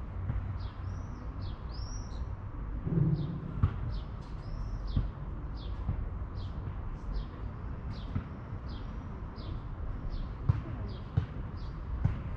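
Small birds chirping over and over, short high chirps about twice a second, over a steady low outdoor rumble. A few sharp clicks stand out here and there.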